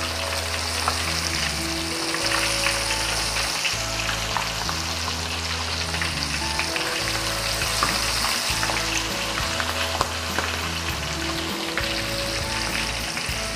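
Quail pieces deep-frying in hot oil in a wok: a steady sizzle with scattered small pops and crackles. Soft background music with low held notes plays underneath.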